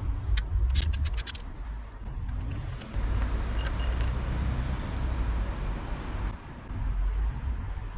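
A socket ratchet clicks in a quick run about a second in, loosening the oil filter housing cap on a BMW E46 M3 engine. A steady low rumble with hiss follows.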